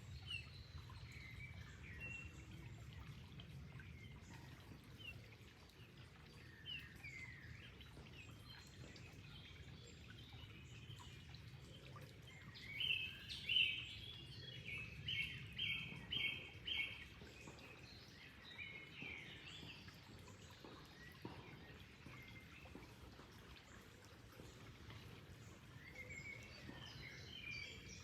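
Wild birds calling and singing over a steady low rush of flowing water. Midway there is a louder run of about six short, repeated song notes.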